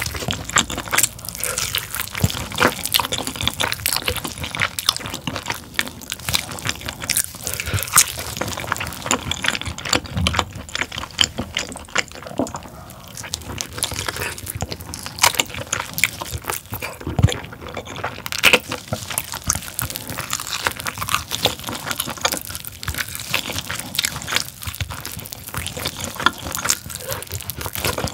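Close-miked wet, sticky chewing and lip smacking as a person gnaws braised pork tail, its skin chewy and gelatinous. Dense, irregular moist clicks and smacks.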